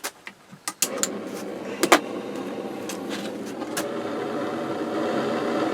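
A few sharp clicks, then about a second in a heating tool starts up with a steady rushing blow that keeps running and slowly grows louder, heating a seized handle to free it.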